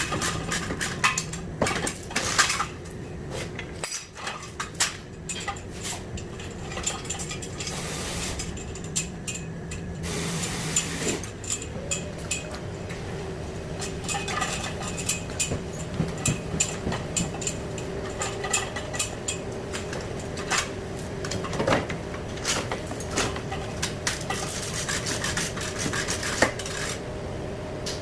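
Metal tools and parts clinking and knocking irregularly during car body repair work. A steady hum comes in about twelve seconds in and holds under the clinks.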